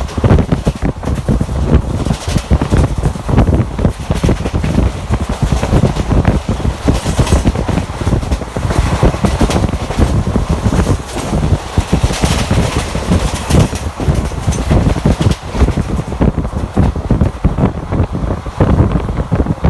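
Wind buffeting the microphone over the steady running rumble of a moving passenger train, with irregular clatter throughout.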